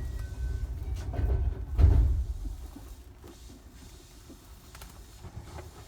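Train sounds: a low rumble that swells to one heavy thud about two seconds in, then dies away to a low steady background.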